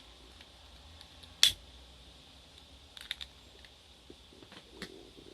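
A few sharp clicks and light taps from handling small hard parts: one loud click about a second and a half in, then a small cluster of clicks near three seconds and a few faint ticks after.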